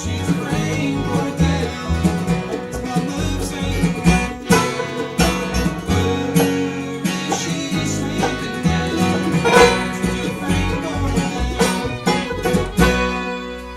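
Live bluegrass band playing plucked acoustic string instruments, working to a last chord that rings out and fades near the end as the song finishes.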